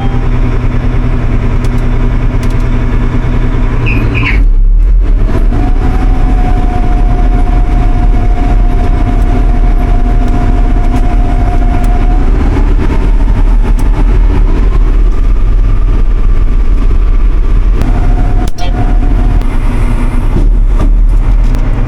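Combine harvester engine running steadily and loudly, with a whining tone that holds for several seconds and then rises in pitch about two-thirds of the way through.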